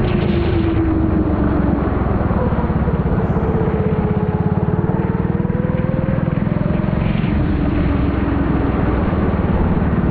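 Four-stroke Honda kart engine running hard on track, its pitch dipping and rising as the kart slows for and powers out of corners, picked up by a helmet-mounted camera.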